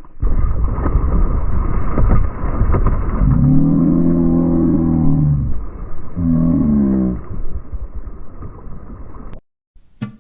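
Loud, muffled rushing and splashing noise, with a man's two drawn-out shouts in the middle, the first the longer. It cuts off suddenly near the end.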